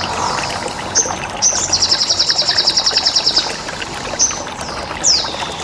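Songbird calls from a caged-bird training (masteran) track: sharp down-slurred high chirps repeated at intervals, and a rapid even trill about two seconds in lasting roughly a second and a half, over a steady sound of running water.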